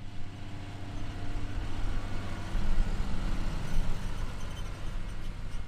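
A vehicle engine running steadily with an even hum.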